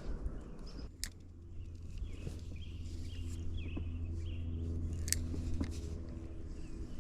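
A steady low motor hum with chirping birds over it, and two sharp clicks, about a second in and again about five seconds in.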